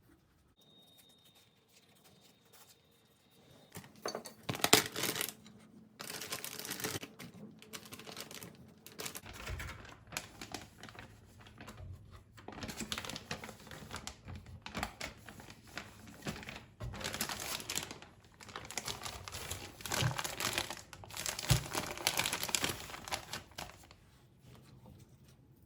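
Plastic crinkling and rustling in repeated bursts as it is handled, starting about four seconds in and stopping just before the end.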